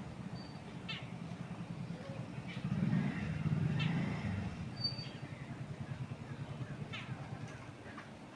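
Wind with a low, steady noise that swells for a second or two about three seconds in, under short bird calls that drop quickly in pitch, one every few seconds, and two brief thin high notes.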